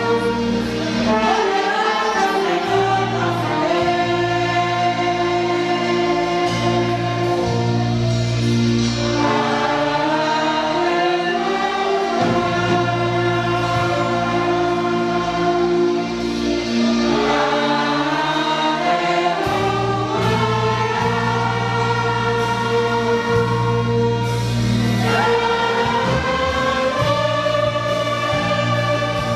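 A church orchestra plays a slow gospel hymn, with sustained chords that change every few seconds over a held bass line.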